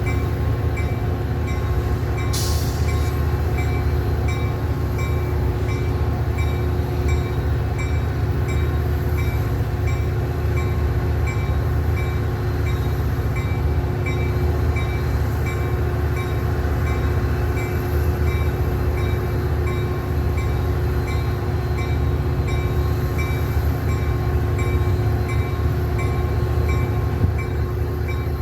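Train running steadily on the rails: a continuous, even low rumble with no horn.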